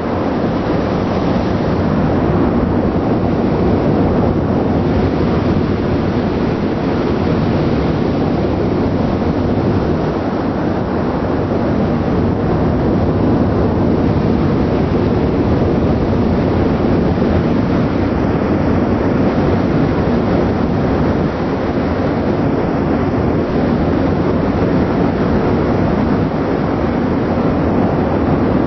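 Steady, loud rumble and rush of a ship's exhaust vent and engines at sea, with a low hum running under it and no break or change.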